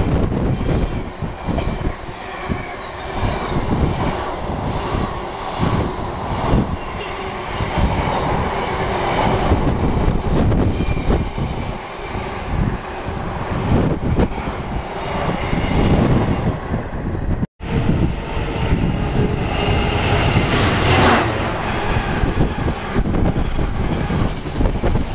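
Container freight trains running past close by: the wagons' wheels clatter over the rail joints in a quick, uneven rhythm over a steady rumble. The sound drops out for an instant about two-thirds of the way through.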